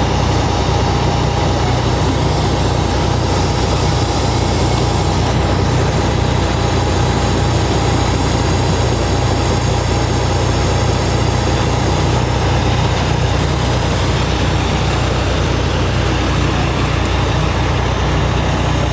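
Heavy wrecker's diesel engine running steadily with a deep, even drone and a faint steady whine above it.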